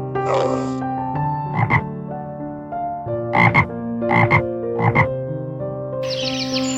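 A frog croaking in short calls, about six of them, several coming in quick pairs, over soft background music with held notes.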